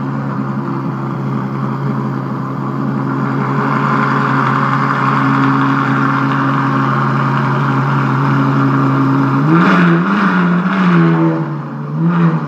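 Ferrari FF's V12 through a Novitec Rosso aftermarket exhaust, idling steadily. It is then revved briefly a few times in quick succession near the end.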